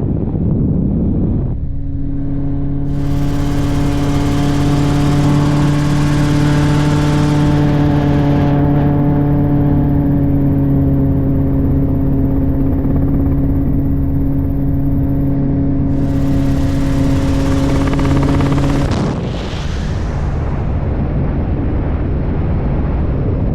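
Helicopter cabin noise in flight: a loud, steady mechanical drone with a constant hum over a rushing noise. The hum drops out near the end.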